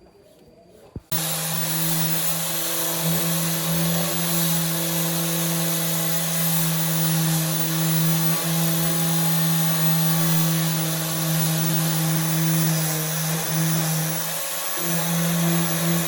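Handheld electric power tool switched on about a second in and running steadily at full speed, with a steady hum under a harsh hiss, briefly easing off near the end before running on.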